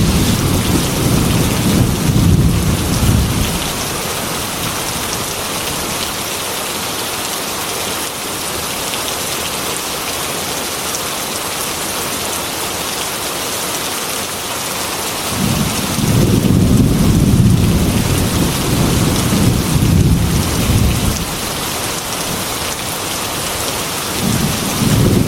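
Heavy rain falling steadily on a metal roof, with rolling thunder rumbling low at the start, again for several seconds from about two-thirds of the way in, and once more at the very end.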